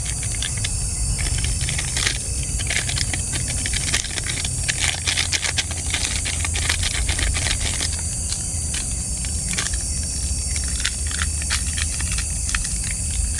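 Crinkling and small clicks of a coffee sachet and cup being handled while coffee is made, thickest in the middle, over a steady hiss and the continuous high drone of night insects.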